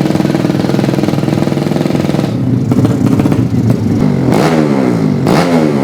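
200cc underbone drag-racing motorcycle engine running loud and steady, its pitch falling twice near the end.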